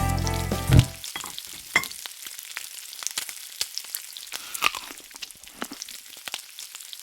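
Food sizzling and crackling in a hot pan, with many small irregular pops. Guitar music stops about a second in.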